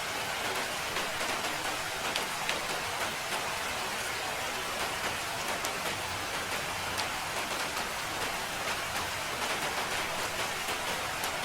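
Steady rain falling, a continuous even hiss with scattered individual drops ticking through it.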